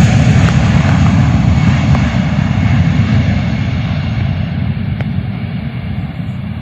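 Jet airliner engine noise: a loud, deep rumble that slowly fades as the aircraft moves away.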